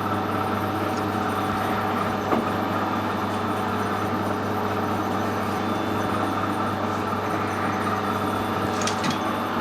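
Metal lathe running steadily, its motor and gearing giving a constant hum and whine, with a couple of faint clicks.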